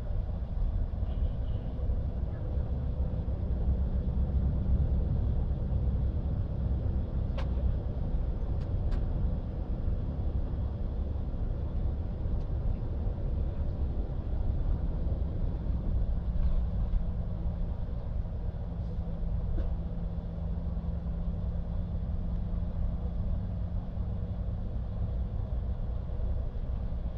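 A motor running steadily: a continuous low rumble with a faint steady hum, and a few light clicks about a third of the way in.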